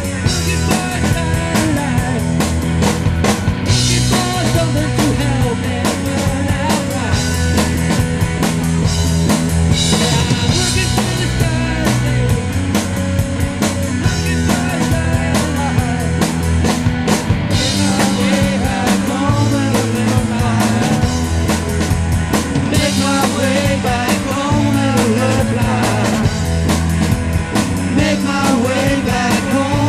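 Live rock band playing an instrumental passage: full drum kit with cymbals, bass and guitar.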